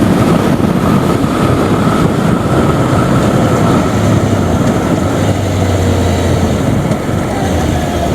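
Kawasaki ZZR600's inline-four engine running steadily under way, under heavy wind rush on the microphone while riding.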